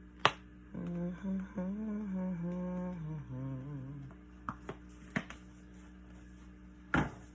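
A person humming a wandering tune for about three seconds, then a few sharp clicks or taps, the loudest one near the end.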